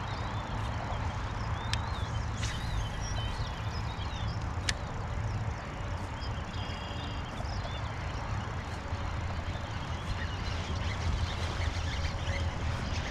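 Several birds chirping and calling in short, quick notes over a steady low rumble, with a couple of sharp clicks.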